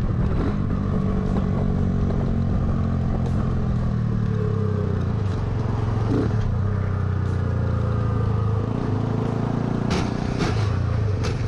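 Motor vehicle engine running steadily, with a few sharp knocks near the end.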